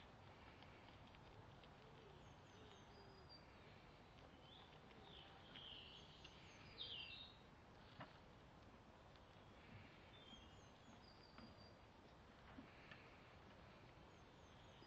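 Near silence with faint birdsong: scattered short chirps and twitters, the loudest about six to seven seconds in. A single sharp click about eight seconds in.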